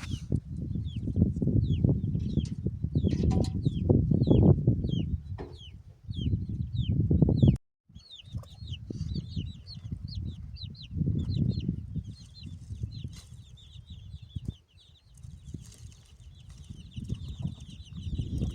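Small birds chirping over and over, short, high, falling chirps about two or three a second that grow faster and busier in the second half, over an uneven low rumbling, rustling noise. The sound cuts out for a moment a little before halfway.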